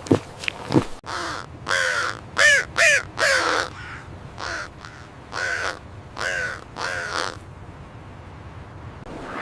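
A bird giving a series of short calls, about seven in all: four in quick succession, then a pause, then three more. A few sharp clicks come in the first second, before the calls begin.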